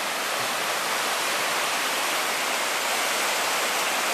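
River water rushing steadily below a bridge, the river running high after several days of rain.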